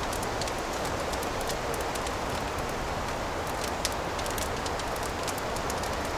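Fireplace burning: a steady hiss of flames with many small, sharp crackles and pops scattered through it.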